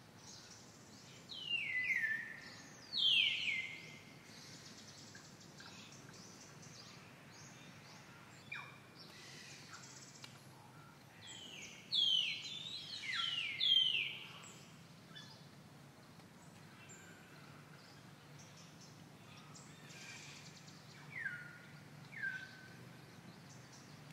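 Birds calling: sharp whistled calls that each fall steeply in pitch, in groups, two near the start, a cluster of three or four in the middle and two more near the end, over a faint steady low hum.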